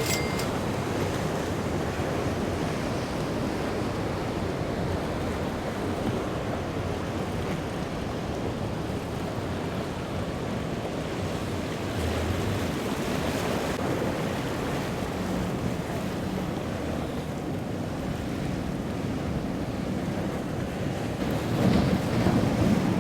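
Waves surging and breaking in an ocean inlet, with wind buffeting the microphone. A large boat's engines add a low rumble that grows louder near the end.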